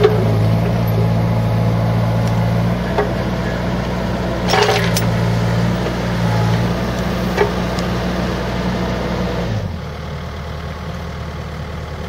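Bobcat 334G mini excavator's diesel engine running steadily, with a few sharp clicks or knocks along the way. About ten seconds in, the engine note suddenly drops lower and quieter as it throttles down.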